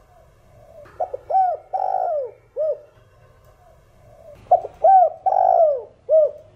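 Spotted dove cooing in its 'thổ đồng' voice, the calling song that bird keepers use to rouse caged doves. Two phrases, each a short run of arching coos with one longer drawn-out note, begin about a second in and again past the middle, with softer cooing between them.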